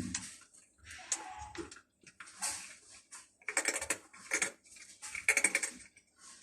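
Clinking and scraping of a food dish in short, irregular bursts, loudest about three and a half and five seconds in.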